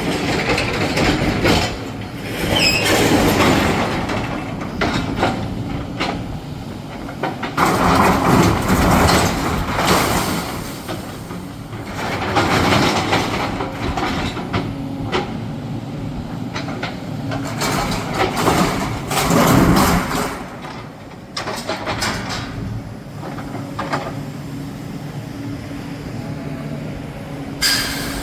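Demolition excavator at work: its engine running steadily under repeated crunching and clattering as rubble and debris are pulled down and broken, in irregular surges, loudest about eight to ten seconds in and again near twenty seconds in.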